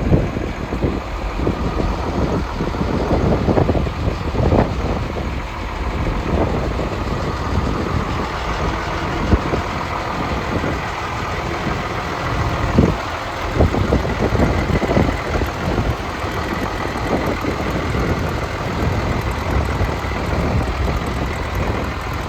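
Diesel engine of a 1993 International straight truck idling steadily, with scattered short knocks.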